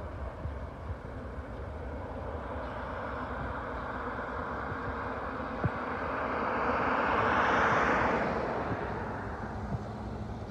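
Airbus A320 jet engine noise during a takeoff climb-out: a low steady rumble under a broad rush that swells to a peak about eight seconds in, then fades.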